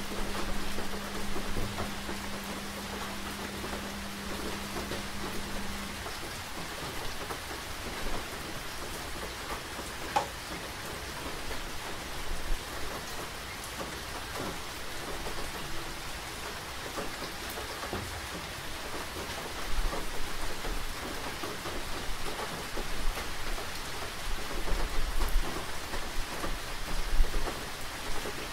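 Steady rain falling, an even hiss with scattered small taps of drops. A steady low hum stops about six seconds in, and deep low rumbles come and go over the last several seconds.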